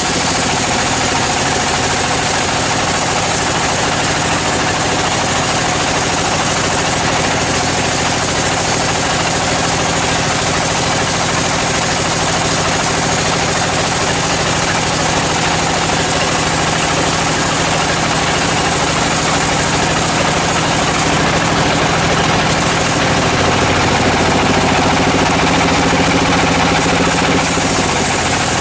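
Sawmill machinery running steadily while milling a dry teak log: a loud, constant mechanical drone with a high hiss over it, which turns uneven about twenty seconds in.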